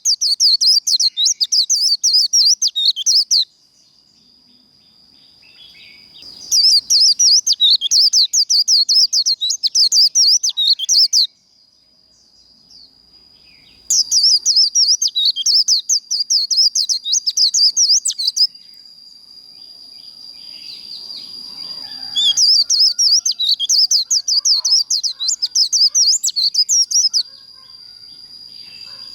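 White-eye (vành khuyên) singing its rapid, high chattering 'líu' song in four bursts of about four to five seconds each. A thin steady high tone holds between the bursts.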